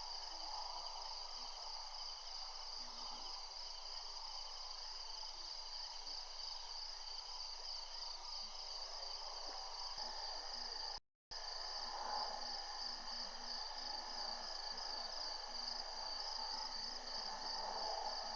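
Steady night chorus of crickets and other insects, a fast shrill trill with fainter lower buzzing under it. The sound cuts out completely for a moment about eleven seconds in.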